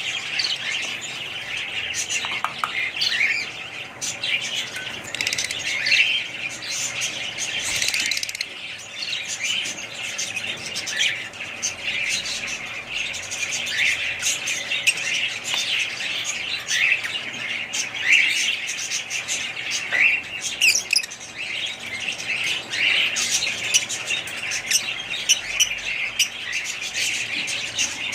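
Many small birds chattering together: a steady stream of overlapping high chirps and squawks.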